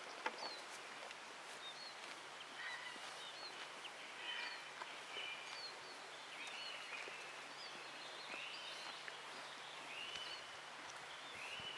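Quiet countryside ambience with birds calling: short high chirps, then from about halfway through a repeated arching call about every second and a half.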